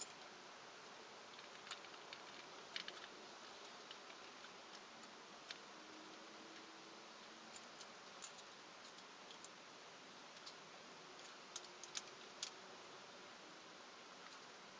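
Scattered faint clicks and light ticks, irregular and a second or so apart, over a low steady hiss.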